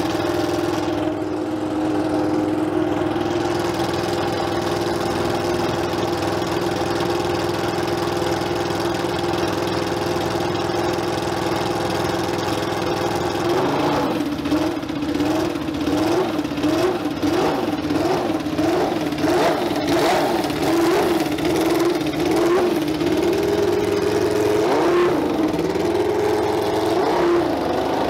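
Car engine idling steadily, then revved in quick throttle blips about once a second from about halfway, and held at a raised speed near the end.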